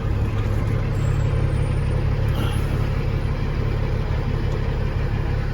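Cat 3406E inline-six diesel of a Freightliner FLD120 truck idling steadily with a low, even hum.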